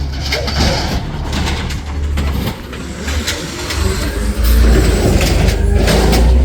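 Recycling garbage truck's heavy diesel engine running, with repeated clanks and knocks of metal. The engine grows louder about four and a half seconds in.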